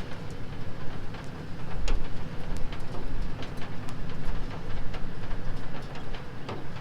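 Tour vehicle running at low speed with a steady low rumble, with scattered clicks and rattles throughout.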